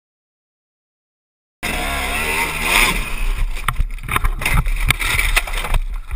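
Silence, then about one and a half seconds in a dirt bike engine starts up loud and revving, with a run of sharp knocks. It drops away near the end.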